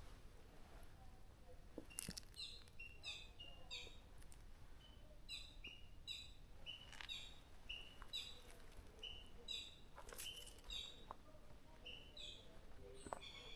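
A songbird calling over and over: short, high, slightly falling notes, mostly in pairs, repeated about once or twice a second. A few faint clicks are heard too.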